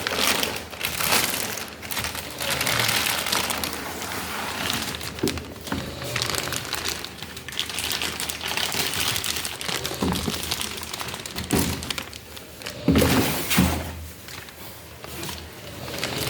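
Packaging crinkling and rustling as it is handled during unboxing, with two thuds late on.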